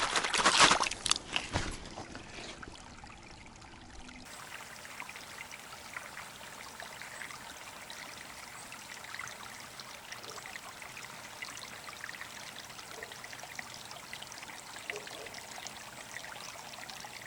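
Water splashing for the first second or two as a roach goes into the keepnet, then steady trickling and lapping of river water from about four seconds in.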